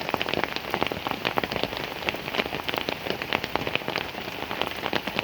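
Heavy rain falling steadily, with a dense, continuous spatter of individual drops striking a surface close to the microphone.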